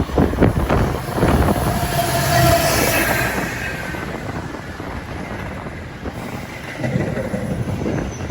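Metra commuter train running on the rails with a steady rumble, its wheels knocking over the rail joints in the first second or so.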